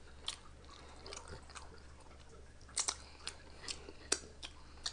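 A person chewing a mouthful of food close to the microphone, with soft wet mouth clicks and smacks every half second or so, more of them in the second half.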